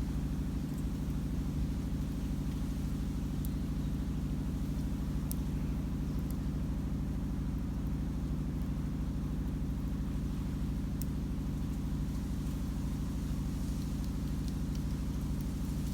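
A steady low mechanical drone, with a few isolated sharp crackles from wood burning in a homemade barbecue grill and fire pit.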